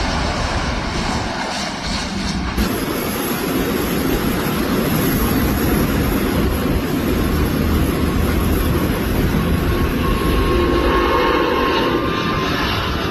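Light propeller aircraft's engine running at high power, a steady loud drone with a low rumble, with an abrupt cut to another clip of engine noise about two and a half seconds in.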